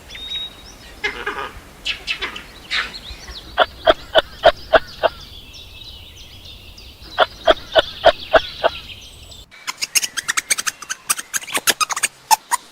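Turkeys calling: two quick runs of about six sharp gobbling notes over higher background bird chatter. About nine and a half seconds in, the sound changes abruptly to a flock of ducks quacking rapidly.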